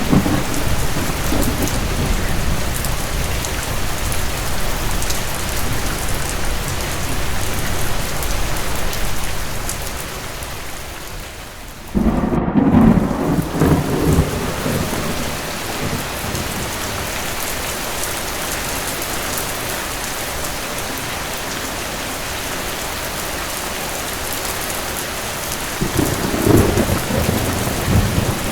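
Steady rain with rolling thunder. A rumble comes near the start. The rain dips briefly, then a louder roll of thunder begins abruptly about twelve seconds in, and another rumble comes near the end.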